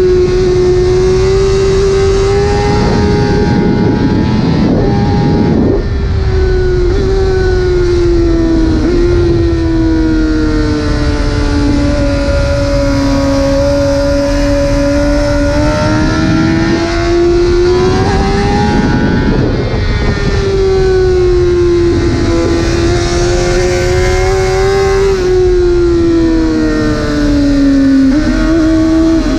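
2009 Honda CBR600RR's inline-four engine at high revs through a full titanium Arrow exhaust, its note sinking and climbing slowly several times with throttle and gear changes, over wind rushing across the microphone.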